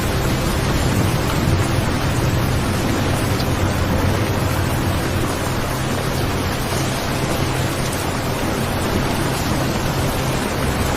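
Steady recorded rain, an even hiss with a low rumble underneath and a faint 528 Hz tone in the mix.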